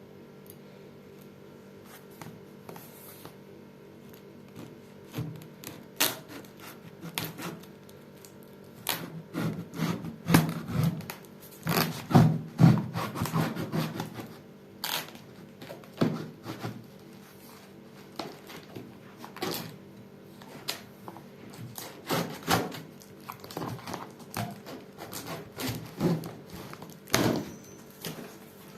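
Cardboard box and packaging being handled while a microwave oven is unboxed: irregular scraping and rubbing with many sharp knocks and thuds, busiest about a third of the way in.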